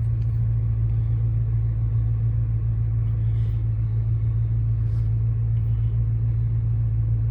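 Dodge Challenger R/T's HEMI V8 idling steadily, an even low hum.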